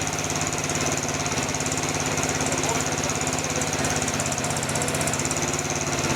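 Mini excavator engine running steadily with a fast, even pulsing.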